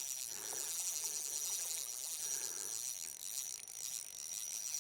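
Insects trilling steadily in one high, even tone.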